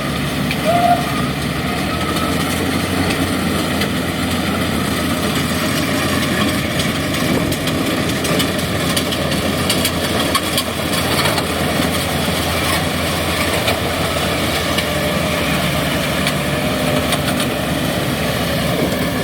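Kubota DC70G combine harvester running steadily, with a loud mechanical noise that a bystander takes to be a bearing, likely the auger bearing.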